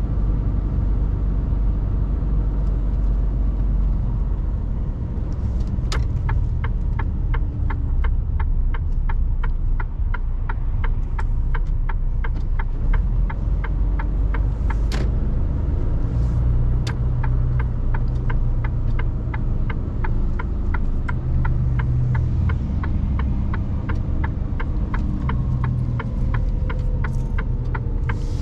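Mercedes Actros truck heard from inside the cab, its engine and road noise making a steady low rumble. For most of the time a regular ticking of about two to three clicks a second runs over it, the rhythm of a turn-indicator relay.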